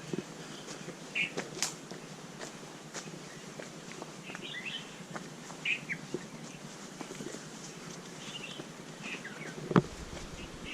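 Birds chirping outdoors in short scattered bursts of calls every second or two, with a few soft clicks and one sharp knock near the end.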